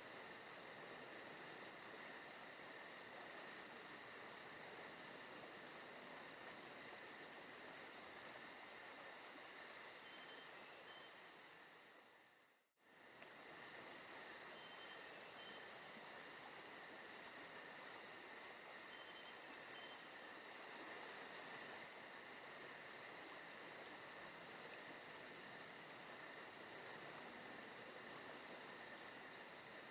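Recorded forest ambience: crickets and other insects chirping steadily, with a fast pulsing trill high up. The sound fades out briefly about thirteen seconds in, then comes straight back.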